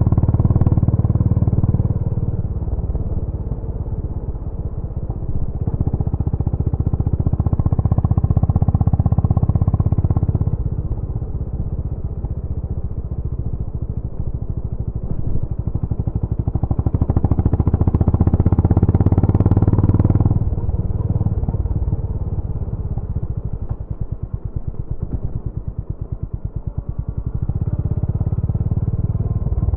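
Exhaust of a Honda GB350's air-cooled single-cylinder engine, swelling louder and easing off about four times, with the separate beats of the single cylinder plain in the quieter stretches.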